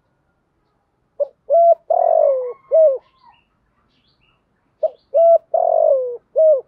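Spotted dove cooing: two identical phrases of four coos, each with a long falling third note, the second phrase starting about three and a half seconds after the first.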